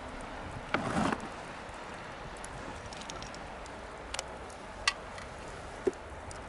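Wood bonfire crackling: a steady soft hiss with a few sharp pops, a quick cluster about a second in and single snaps later on.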